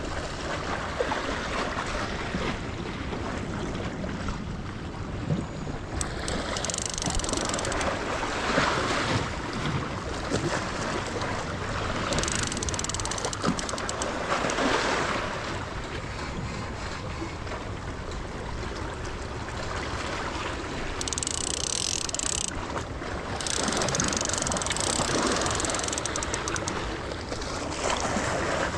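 Sea surf breaking and washing over rocks: a steady low wash, with surges of hissing foam and spray every several seconds.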